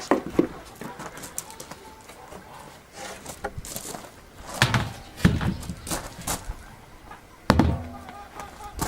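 Farmyard poultry calling faintly now and then. Three loud knocks come about halfway through and near the end, the loudest sounds here.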